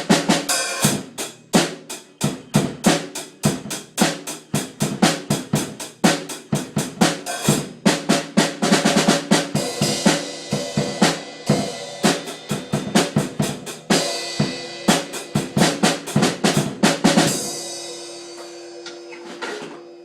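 Snare drum played in a run of quick strikes and rolls, its head damped with a piece of tissue taped onto it. The hits stop about three-quarters of the way through, leaving one steady ringing tone that fades out.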